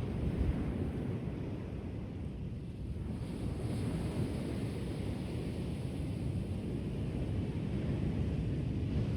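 Ocean surf washing onto the shore, a steady low rumbling wash, with wind buffeting the microphone. A brighter hiss rises briefly about three seconds in.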